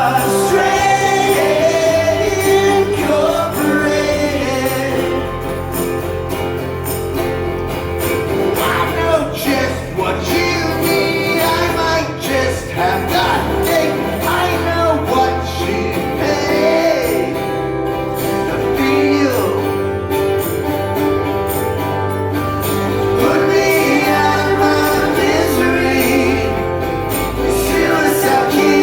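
Live acoustic rock band performance: strummed acoustic guitar with a sung lead vocal.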